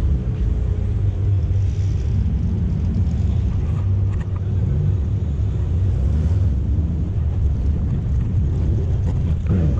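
Low, steady rumble of car engines running at idle.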